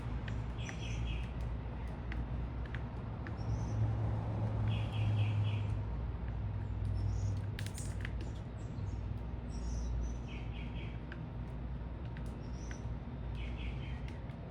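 Small birds chirping, with a quick four-note phrase repeated every few seconds and scattered higher single chirps, over a steady low rumble of city traffic.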